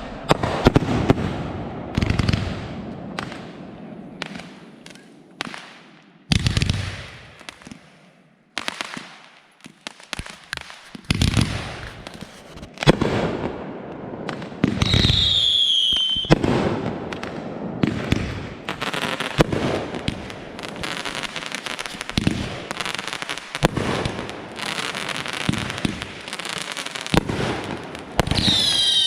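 Consumer fireworks, artillery shells and cakes, going off in a rapid string of sharp bangs with crackling tails. Twice, about halfway through and near the end, a whistling effect glides down in pitch.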